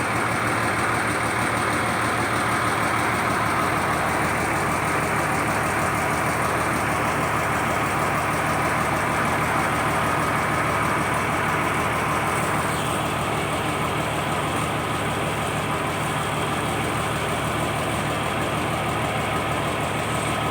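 Diesel engine on a purse seine fishing boat running steadily at a constant speed, a continuous low hum with no breaks.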